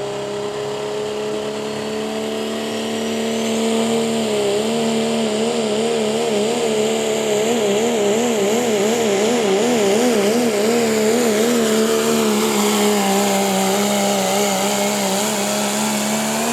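Pulling vehicle's engine running hard under load during a pull down the track, its pitch climbing slowly at first. From about four seconds in, the pitch wavers up and down about twice a second for several seconds, then steadies again.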